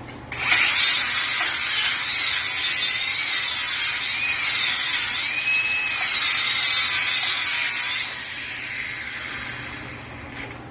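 A hand power tool starts suddenly and runs for about eight seconds, a loud high hiss with a faint whine that wavers up and down in pitch, then dies away.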